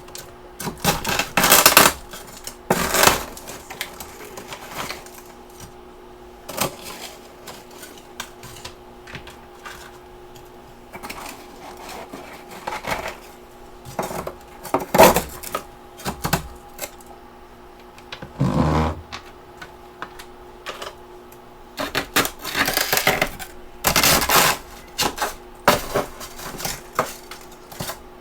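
Close-miked crunching of freezer frost and ice chunks being bitten and chewed, in irregular bursts of crisp crunches with quieter gaps between them. The loudest bursts come in the first couple of seconds, around the middle, and in the last few seconds, over a faint steady hum.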